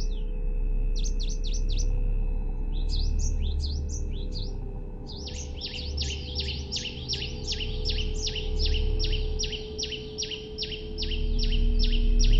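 A songbird singing quick clusters of sweeping whistled notes, then from about five seconds in a steady run of repeated down-slurred notes, about two or three a second. A steady low drone and hum run underneath.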